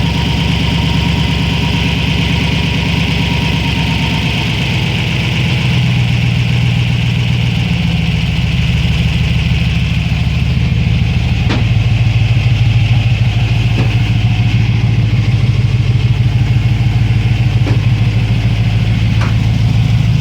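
4.6-litre engine running at a steady idle. The engine note shifts slightly about a third of the way in and grows a little louder after the halfway point. A few faint clicks are heard over it.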